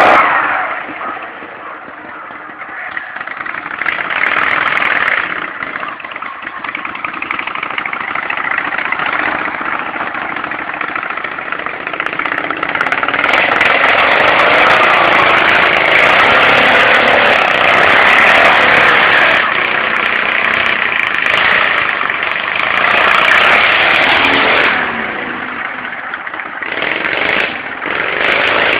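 Engines of modified riding lawn mowers running hard through mud, the sound swelling and fading as they rev and ease off, quietest near the start and again near the end.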